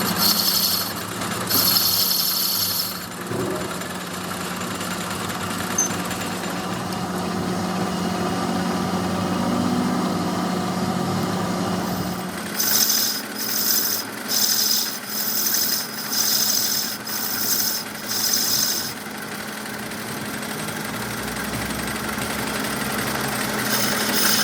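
A workshop machine hums steadily. About halfway through come six or seven short strokes of high hissing or rasping, each under a second, before the hum goes on alone.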